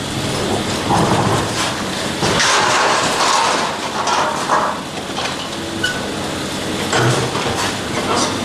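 Heavy construction machinery at work, a dense mechanical noise broken by irregular knocks and scraping.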